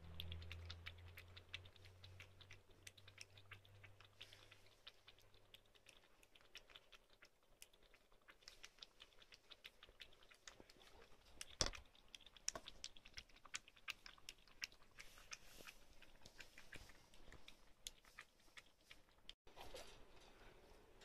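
Shih Tzu puppy eating from a plastic bowl: a quick, irregular run of small crunching clicks of chewing, with one sharper click about halfway through.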